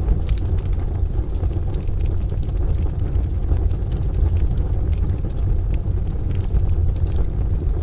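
Ambience mix of a steady low rumble with scattered sharp crackles of a burning wood fire in a stove.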